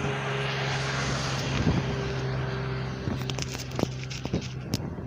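A motor vehicle passing on the road: a steady engine hum with tyre noise that fades after about three seconds, followed by a few short clicks.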